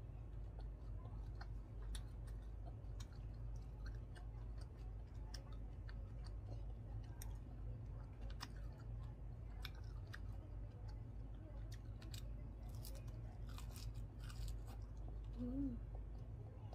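Close-up chewing and crunching of fried shrimp: crisp clicks scattered throughout and thickest about thirteen to fourteen seconds in, over a steady low hum.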